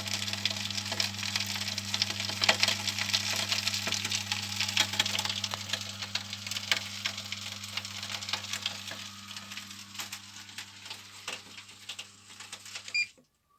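Homemade pea-coal feeder for a furnace running: a steady motor hum under dense, irregular crackling and clicking of the coal, the crackles thinning out over the last few seconds. Everything cuts off suddenly just before the end.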